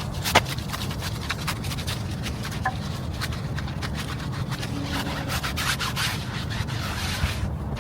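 A stiff brush scrubbing a car tire, with many short scratchy strokes and a denser stretch of hissing scrubbing near the end, over a steady low hum.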